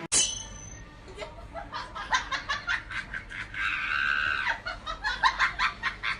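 Someone laughing in quick repeated bursts, with a held high-pitched squeal about three and a half seconds in.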